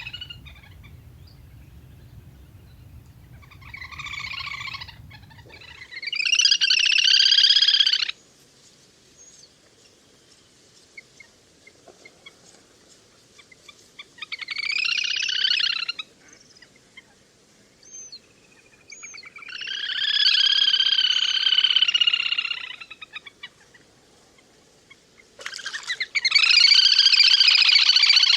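Recorded little grebe calls: about five bursts of high, trilling whinnies, each lasting one and a half to three seconds with pauses between. The last burst starts near the end and is among the loudest.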